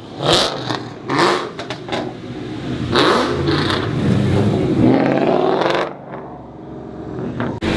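Ford Mustang V8 engines revving hard and accelerating away, with a few short, loud revs in the first half and a longer rev that rises and falls about two-thirds of the way through.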